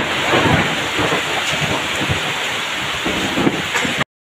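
Heavy rain pouring down onto open ground, a dense steady hiss with irregular low rumbling; it cuts off suddenly near the end.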